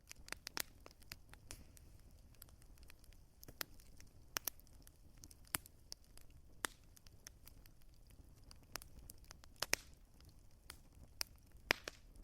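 Wood fire crackling in a fireplace: irregular sharp pops and snaps over a faint, steady low rumble, with a few louder pops near the end.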